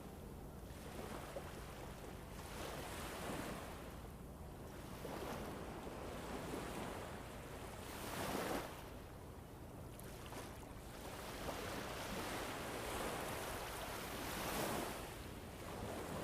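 Recorded sleep-ambience soundscape: a rushing, wind-like noise that swells and fades every two to three seconds, with a faint low steady hum beneath and an occasional faint click.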